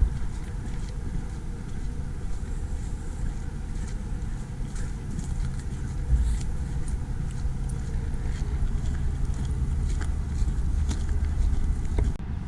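Wind buffeting the microphone, a steady uneven low rumble, with a few faint clicks.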